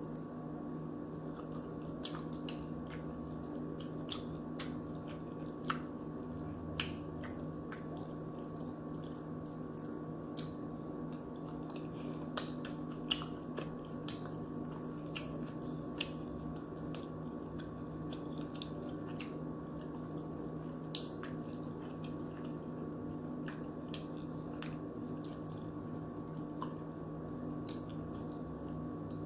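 Close-up eating sounds: chewing, with wet mouth clicks and smacks scattered irregularly, over a steady low electrical-sounding hum.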